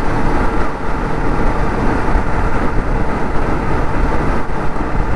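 Kawasaki ZX-10R's inline-four engine running steadily at highway cruising speed, under heavy wind rush on the microphone.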